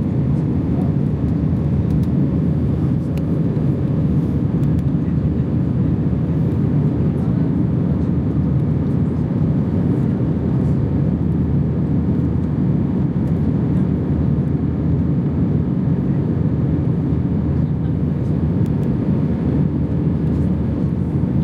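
Steady in-flight cabin noise of an Airbus A320 airliner: a constant low rush of engines and airflow that holds even throughout.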